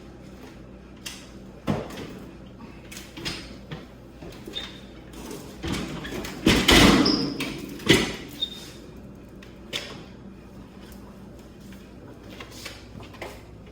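A refrigerator being slid and shoved into place while it is loaded single-handed: scattered knocks and scrapes, a louder scraping rush about halfway through, then a sharp thud.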